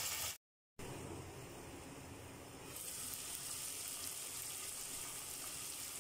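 Potato wedges sizzling in hot oil and spice paste in a wok as the potatoes and masala are sautéed together. A steady hiss, cut off completely for a moment just after the start, then back and brighter from about halfway through.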